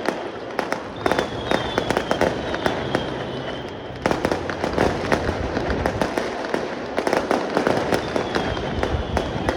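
Fireworks going off in rapid succession: a dense stream of crackling pops and bangs, with whistling shells that fall in pitch at the start and again near the end.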